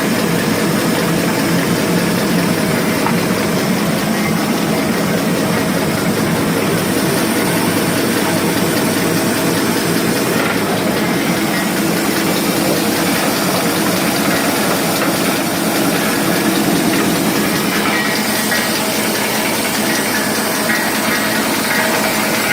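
Double twist wrapping machine running at speed, about 300 pieces a minute: a steady, fast mechanical clatter with hiss as it feeds, wraps, twists and ejects round chocolates.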